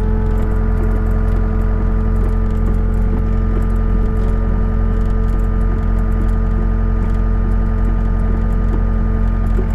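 Excavator's diesel engine running steadily with a deep rumble while its raised track is turned, working warmed, thinned hydraulic oil through the drive and moving parts in cold weather.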